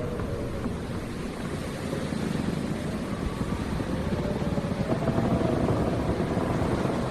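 Howling wind: a steady low rushing rumble with a faint whistle that wavers slowly up and down in pitch.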